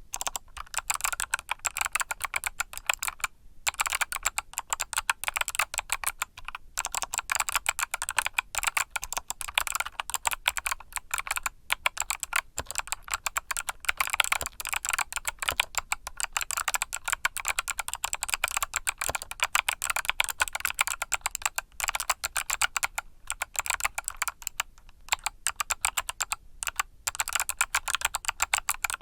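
Mechanical keyboard with Kailh Box switches, typed on fast and continuously: a dense run of crisp key clicks with a few short pauses.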